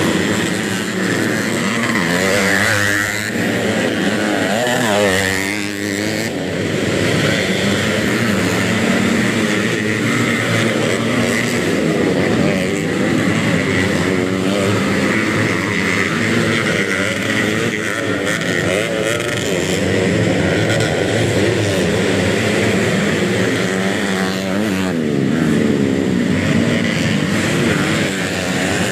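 Several underbone-class motocross bikes racing, their engines revving up and down over one another without a break.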